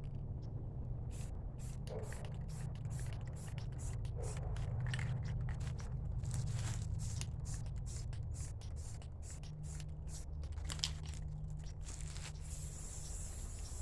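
Aerosol spray-paint can spraying in many short bursts of hiss, with one longer spray near the end.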